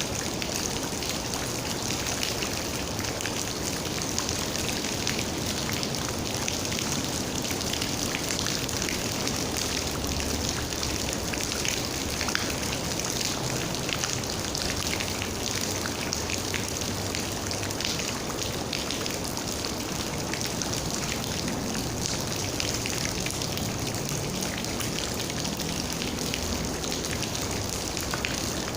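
Steady rain: a dense, even patter of raindrops.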